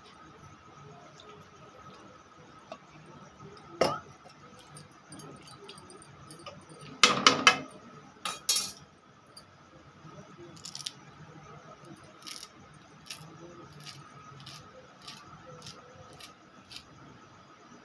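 Metal spoon clinking and scraping against a kadhai while the curry is stirred: one sharp knock about four seconds in, a loud clatter of several strikes about seven to eight and a half seconds in, then light scattered ticks.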